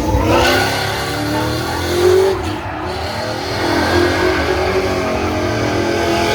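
Car engine revving, its pitch rising and falling, with a loud peak about two seconds in.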